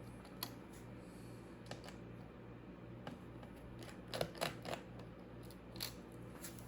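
A few faint, sharp clicks and taps of hard objects being handled, with a quick cluster of three or four about four seconds in, over a low steady hum.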